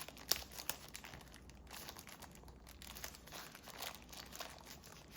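Packaging crinkling and rustling with scattered light clicks, as a drone battery is unpacked by hand.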